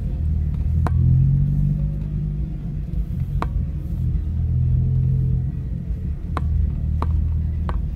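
Car engine heard from inside the cabin, running at low revs at a slow parade pace. Its low hum swells slightly twice, and a few sharp clicks sound over it.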